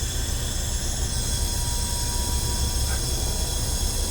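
Compressed air hissing steadily through the trailer's air-suspension leveling valve and airbags as they fill, the hiss thinning about a second in, over a low steady engine rumble.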